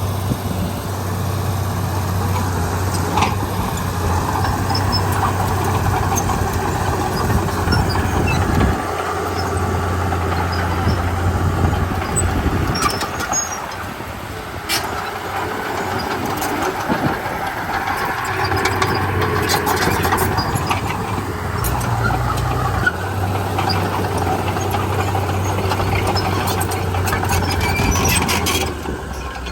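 Komatsu D31P bulldozer's diesel engine running under varying load, dipping and picking up again a few times, with scattered short clanks and squeaks.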